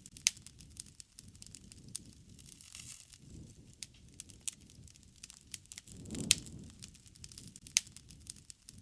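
A wood fire crackling, with irregular sharp pops and snaps over a low rumble of flame. The rumble swells around six seconds in, where one of the loudest pops falls.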